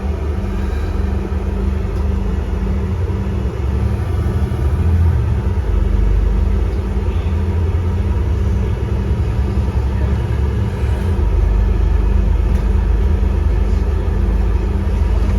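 Alexander Dennis Enviro400 MMC double-decker bus heard from inside the passenger saloon: a steady low rumble of engine and road, getting a little louder from about four seconds in.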